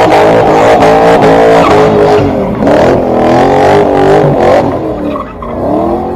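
A BMW E30 revving hard with its tyres squealing, as in a burnout or drift; the pitch wavers up and down. It eases off about five seconds in and picks up again near the end.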